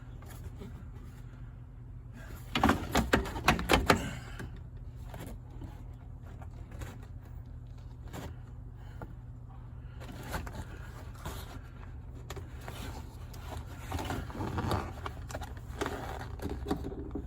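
Rattling and knocking as an interior part of a stripped car is pulled and worked at by hand: a loud burst of clatter about two and a half seconds in, then scattered knocks and scrapes, over a steady low hum.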